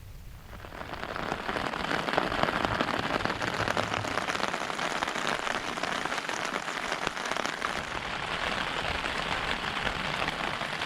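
Heavy rain pattering on the Hilleberg Soulo tent, a dense, even hiss of drops that swells up within the first second and then holds steady.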